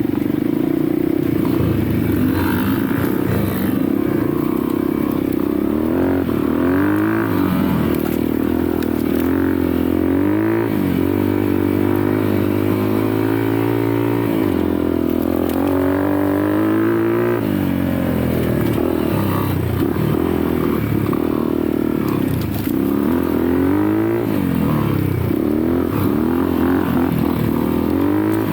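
Dirt bike engine being ridden hard, its pitch climbing again and again under throttle and dropping back at each gear change or throttle lift.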